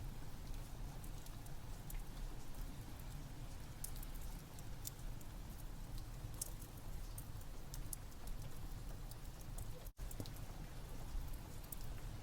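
Steady rain with a wood fire crackling over it in scattered sharp clicks. The sound drops out for an instant about ten seconds in.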